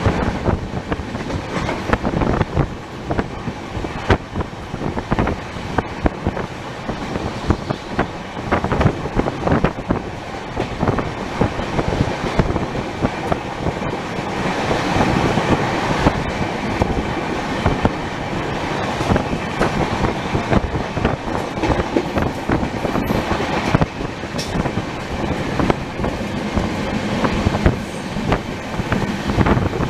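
Shatabdi Express passenger train running on the track, its wheels clattering over the rails in a steady stream of irregular knocks and rattles. The running noise swells for a few seconds around the middle.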